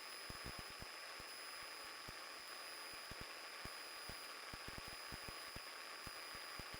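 Faint steady hiss of a cockpit intercom and radio audio feed with a thin high whine, crackling with scattered irregular clicks.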